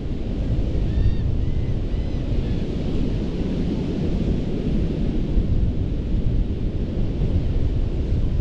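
Ocean surf breaking and washing on a sandy beach in a steady rush, with wind buffeting the microphone. A few short high chirps about a second in.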